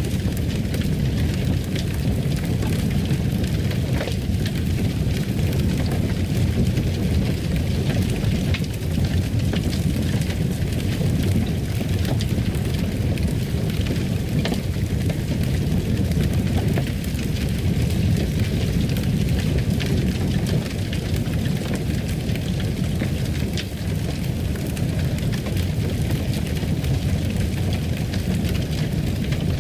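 Fire burning in a fireplace: a steady low rumble of flames with frequent small crackles scattered through it.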